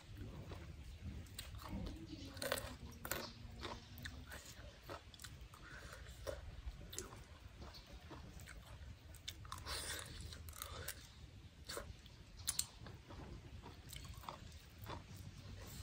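A person chewing and crunching mouthfuls of papaya salad with blood cockles, with scattered small clicks and crackles as fingers pick through the cockle shells on the plate.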